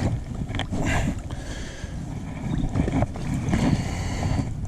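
Wind rumbling on the microphone over water and hull noise from a kayak being backed out, with a few scattered knocks.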